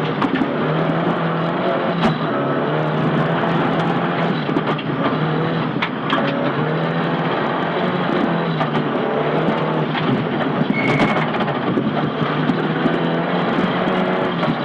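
Nissan Silvia S15 rally car at full stage pace, heard from inside the cabin: the engine revs rise and fall again and again through gear changes, under constant road noise with scattered sharp knocks.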